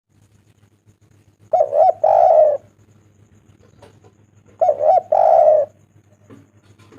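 Spotted dove (tekukur) cooing: two calls about three seconds apart, each two short notes followed by a longer coo.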